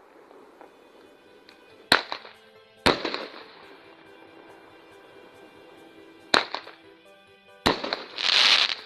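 Fireworks going off: four sharp bangs, about two, three, six and a half and near eight seconds in, each trailing off. Right after the last bang comes a short loud rush of noise.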